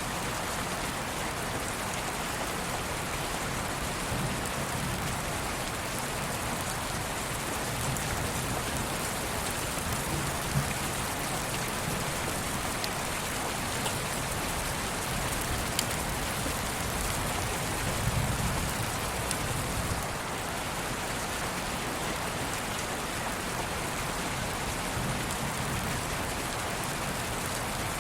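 Steady rain: an even hiss with scattered drop ticks and a few soft low swells, the strongest about eighteen seconds in.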